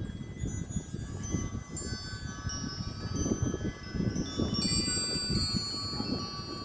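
Wind chimes ringing in strong, gusty wind, many high tones overlapping and hanging on, over a low rumble of wind buffeting the microphone.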